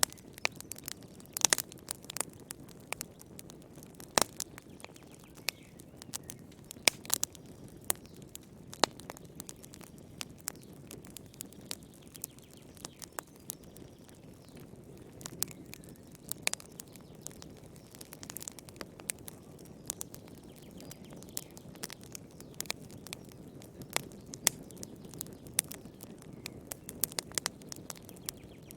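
Wood fire in a fireplace burning with irregular sharp crackles and pops over a steady low hiss of flame.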